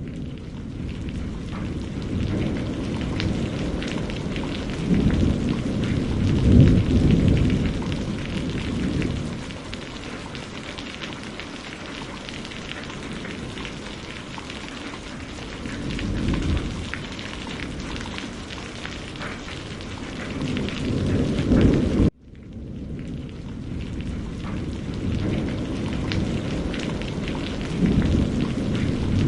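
Steady heavy rain with rolling thunder, several low rumbles swelling and fading, the strongest about six to seven seconds in. About 22 seconds in the sound cuts out sharply for an instant and fades back in.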